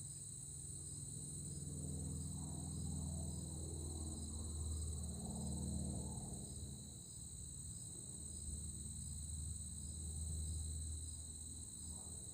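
Distant propeller aircraft engine droning low, swelling and fading as it passes, over a steady chorus of insects chirring.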